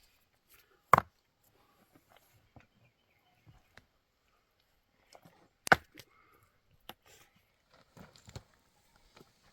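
Two loud, sharp knocks, about a second in and nearly six seconds in, among scattered faint clicks and handling knocks.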